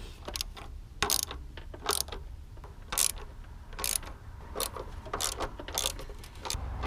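Hand ratchet wrench clicking in short back-and-forth strokes, about one a second, tightening an M12 bolt on a new transmission mount.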